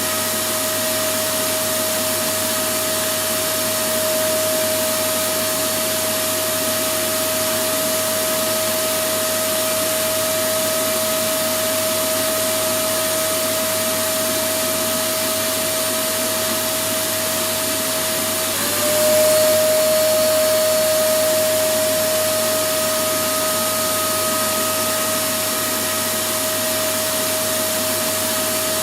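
Electric vacuum cleaner running steadily: a rushing noise with a constant motor whine. About two-thirds of the way through, the whine dips briefly and comes back slightly higher, and the sound grows a little louder for a few seconds before settling.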